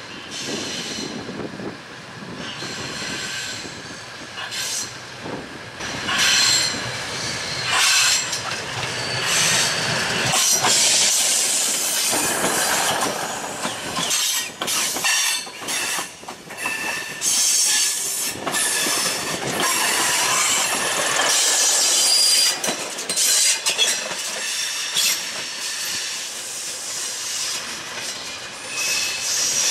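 Diesel multiple unit rolling slowly through station pointwork. Its wheels squeal in high, shifting tones and clatter over rail joints and switches.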